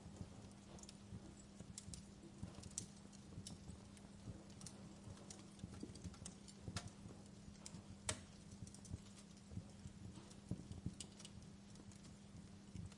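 Wood fire crackling, with irregular snaps and pops of burning logs, one sharper pop about eight seconds in, over a faint steady low hum.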